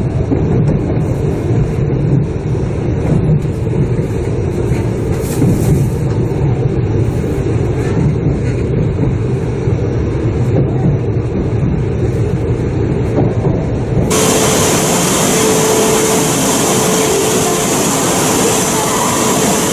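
Shinkansen train running, heard from inside the passenger car as a steady low rumble. About 14 seconds in it changes abruptly to a brighter, even hiss with a faint steady hum.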